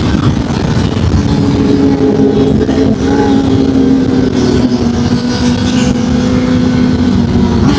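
Honda CB1000R inline-four motorcycle engine running under way, its note holding fairly steady and sagging slowly before rising again at the very end, with heavy wind rush over the rider's microphone.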